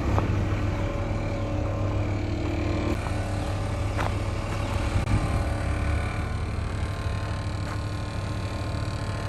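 A vehicle engine running steadily, a low even rumble, with a couple of faint clicks about halfway through.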